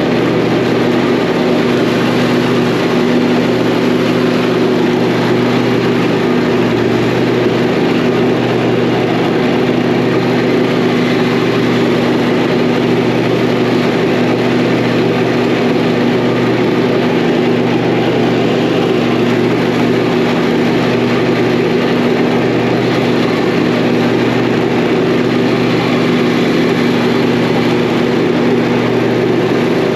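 Zero-turn mower's engine running at a steady speed under load while mowing, with an even, unchanging drone.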